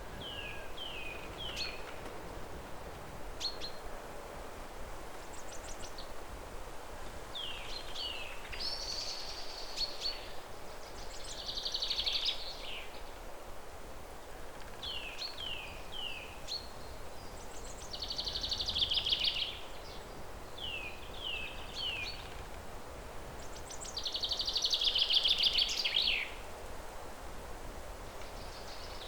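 A songbird singing a repeated song: a few short down-slurred notes, then a loud rapid trill, about three times over, the last trill the loudest. A faint steady outdoor hiss lies underneath.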